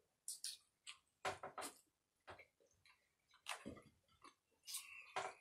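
Close-miked eating: chewing and wet mouth smacks, heard as a string of irregular sharp clicks.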